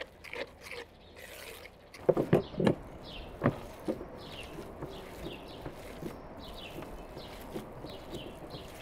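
A small bird chirping in a steady run of short, high, falling notes, about three a second, from roughly three seconds in. Before that, a cluster of loud knocks about two seconds in.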